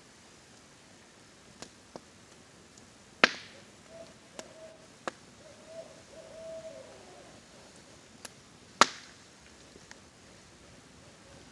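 Campfire crackling with scattered sharp pops, two loud ones about three and nine seconds in, over a faint steady hiss of rain. Between them an owl hoots faintly in a drawn-out call that dips in pitch at its end.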